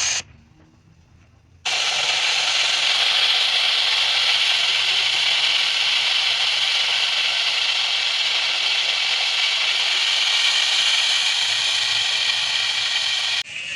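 Steady loud hissing noise with no clear beat or pitch, starting abruptly after a second and a half of near silence and stopping abruptly near the end.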